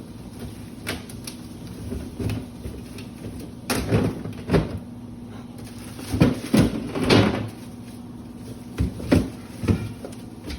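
Groceries being put away in a pantry or cupboard: clusters of knocks and thuds as items and containers are set down and doors handled, in three bursts, over a steady low hum.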